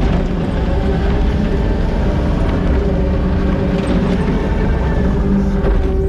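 Diesel engine of a heavy earthmoving machine running steadily under load, a loud, even low drone with a steady hum.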